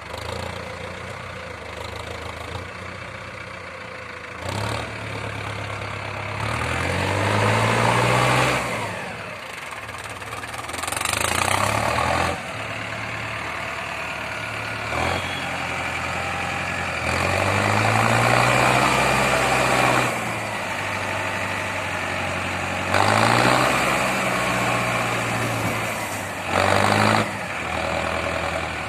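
Tractor diesel engine working a front loader, idling and revving up and easing off several times, with louder spells of noise during each rise in revs.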